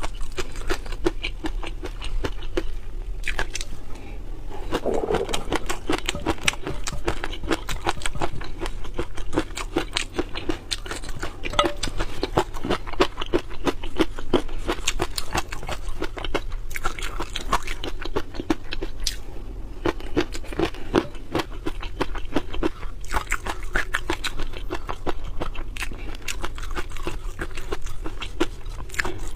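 Close-up mouth sounds of someone eating seafood: steady chewing and crunching with many small wet clicks and crackles.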